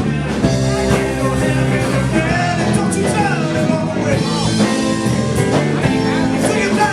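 Live blues-rock band playing: electric guitar and bass with a singer, loud and steady.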